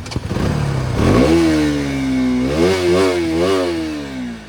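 KTM RC 200's single-cylinder engine revving: the pitch climbs sharply about a second in and holds high, then the throttle is blipped up and down four times in quick succession before the revs fall away near the end.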